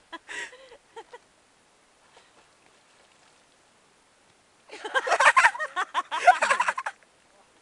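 A young woman laughing hard in rapid high-pitched bursts, briefly at the start, then a long loud fit of laughter after a few quiet seconds.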